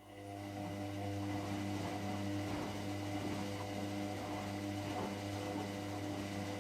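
Hotpoint WMXTF742K washing machine running: a steady motor hum with a regular pulsing as the drum turns. It starts at once and stops near the end.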